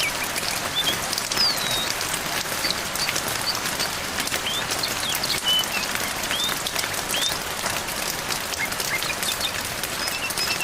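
Steady rain falling with a hiss of fine pattering drops, while small songbirds give short, scattered chirps and whistles over it.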